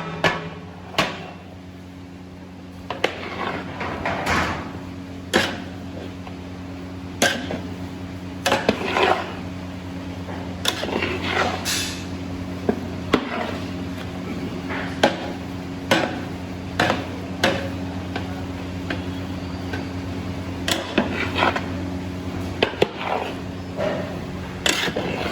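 A metal utensil repeatedly knocking and scraping against a metal cooking pan, in irregular clinks about once a second with a short ring after some, over a steady low hum.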